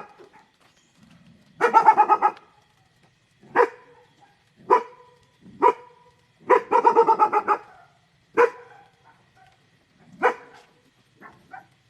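A dog barking: two runs of rapid barks and several single barks in between, then a few faint ones near the end.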